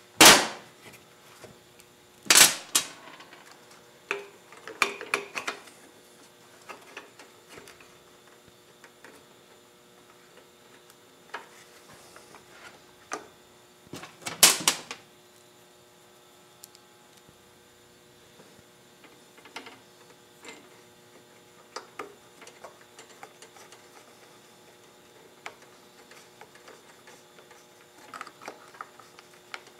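Hand work on a small engine: parts and tools clicking and clunking as the air filter housing is fitted to a Tecumseh TVS105 lawn mower engine, with a few sharp knocks (the loudest just after the start, another about two seconds later and one near the middle) and scattered lighter clicks over a faint steady hum.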